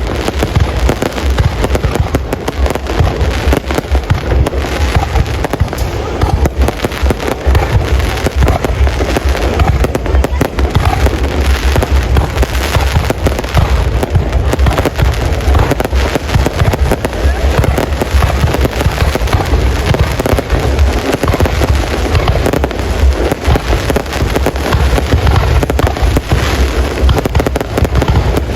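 Fireworks display going off in dense, continuous succession: rapid booms and crackles with no pause, heavy low rumble underneath.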